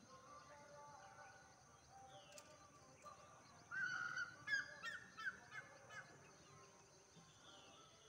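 A bird gives a quick run of about five short, loud calls about four seconds in, over faint chirping of small birds.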